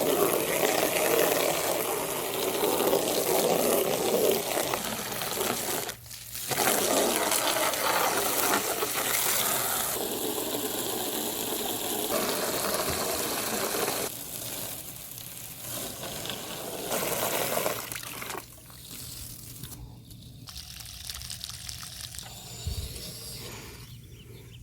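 Water gushing and splashing as something is washed out. The flow breaks off briefly about six seconds in and runs quieter and more broken in the second half.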